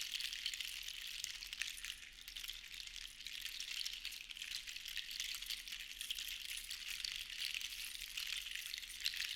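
Seashells rattling and clicking together in a dense, continuous patter, swelling and easing every few seconds as they are shaken or rolled.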